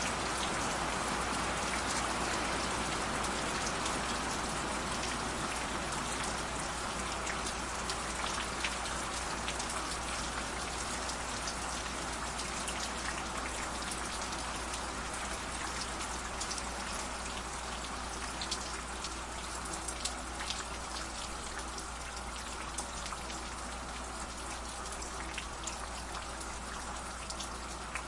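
Running water of a small stream: a steady rush with many small splashes and drips ticking through it.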